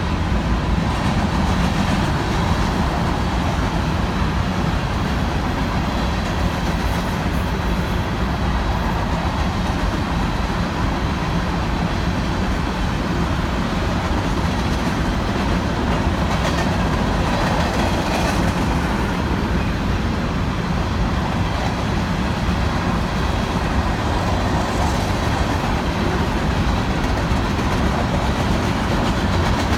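Train cars rolling past on the track, a steady rumble with wheel clatter.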